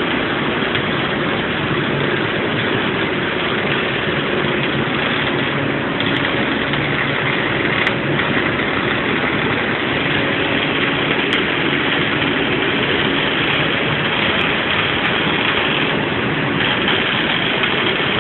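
MIG welding arc with solid wire under argon/CO2 shielding gas, a steady dense hiss that shifts slightly in tone a few times as arcs start and stop.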